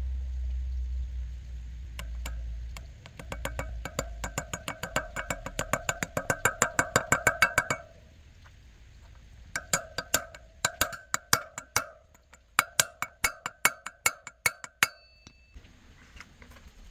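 Rapid metallic tapping, about six sharp strikes a second, each with a short ringing tone. There are two runs: the first builds steadily, and the second, more uneven, follows a short pause. A low rumble comes before the tapping.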